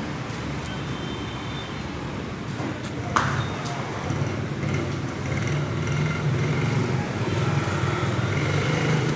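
Steady road-traffic noise with engines running, a sharp clack about three seconds in, and the traffic growing a little louder in the second half.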